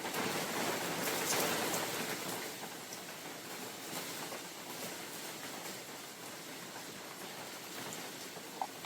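Steady rain falling in a forest, swelling louder for the first two seconds or so and then settling, with one sharp drip near the end.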